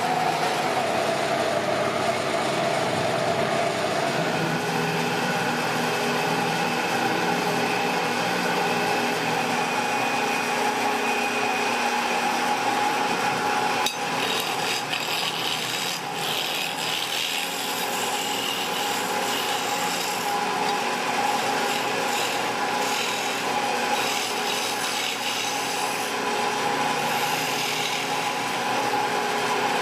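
Wood being worked with a cutting or rasping tool: a continuous rubbing, scraping sound over a steady machine hum, changing slightly about 14 seconds in.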